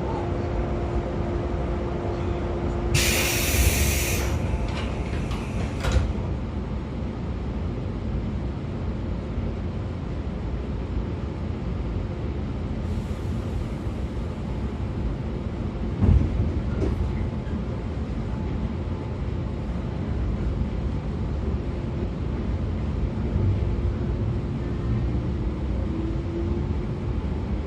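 Onboard running sound of a JR 113 series motor car on MT54 DC series-wound traction motors and DT21B bogies: a continuous rumble of wheels on rail with a gear and motor whine. A loud hiss comes about 3 seconds in and lasts a few seconds, a single thump comes about 16 seconds in, and near the end the whine rises in pitch.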